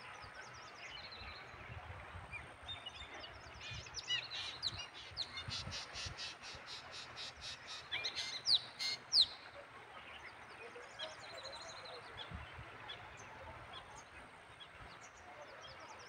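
Birds calling: a fast run of short, high repeated notes, about four or five a second, for several seconds, then a few sharp sweeping whistles about eight to nine seconds in, the loudest sounds here, with faint chirps throughout.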